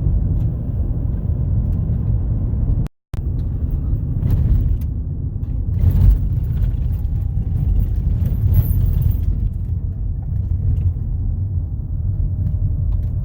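Steady low rumble of a car driving along a road, tyre and engine noise, with a brief dropout about three seconds in and a few light knocks.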